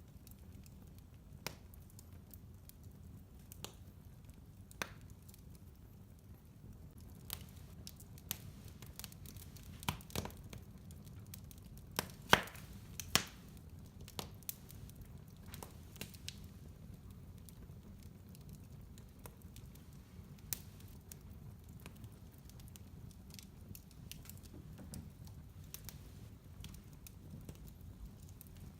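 Fire burning in a fireplace, crackling: scattered sharp pops and snaps over a low steady rumble. The pops come thicker near the middle, where the two loudest fall about a second apart.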